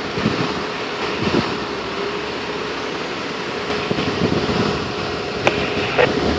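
Steady running of a vehicle engine with a constant hum, and a couple of short clicks near the end.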